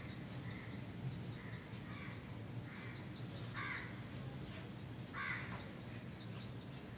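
Harsh bird calls repeated several times at irregular gaps, over a steady low hum.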